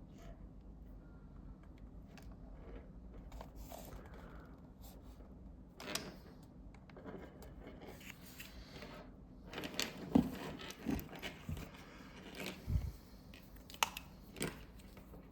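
Handling noise of small plastic parts and leads: scattered clicks, knocks and rustling as the cables of a dental apex locator are handled and plugged in. A few sharp clicks about six seconds in, then more of them through the second half, the loudest about ten seconds in.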